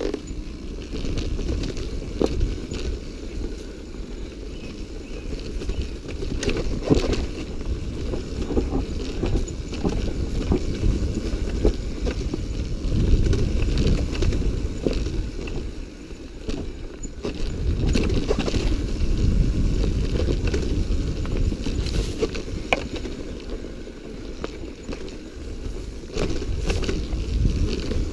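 Dirt bike on the move: engine noise mixed with rumbling wind on the microphone, swelling and fading in level, with scattered knocks.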